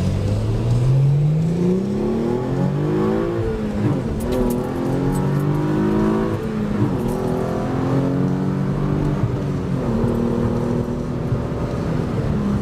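Car engine accelerating hard through the gears. The pitch climbs, drops at upshifts about four, seven and ten seconds in, then settles into a steadier cruise.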